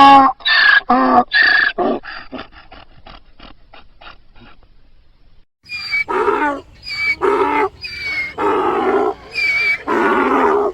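Donkey braying: a run of loud alternating hee-haw notes that trails off into short, quickening, fading gasps within the first few seconds, then after a brief pause a second bray of repeated hee-haw notes.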